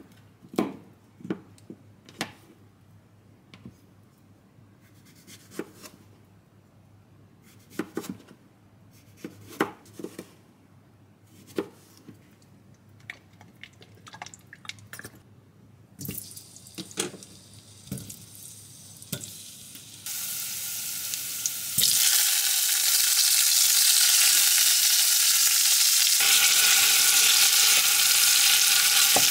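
A knife cutting peeled potatoes on a plastic chopping board, in separate sharp taps. About two-thirds of the way through, potato and tomato pieces go into hot oil in a stainless steel pot and a loud, steady frying sizzle takes over.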